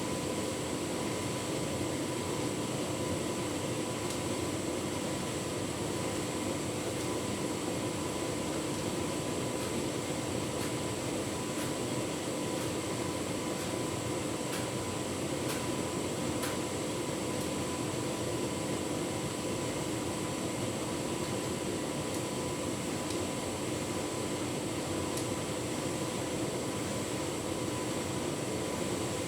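Tumble dryer running on a cottons cycle with a full load of bedding: a steady whir of its fan and motor with a constant hum, and a few faint ticks about halfway through.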